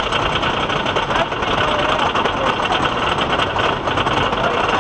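Wooden roller coaster train running along the track, a steady loud rumble with dense, rapid clatter from the wheels, and a few faint brief squeals.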